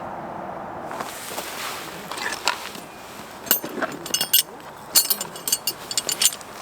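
A steady hum that gives way about a second in to scattered knocks, then a quick run of sharp, bright metallic clinks with short ringing tones, as of hard gear being handled and knocked together.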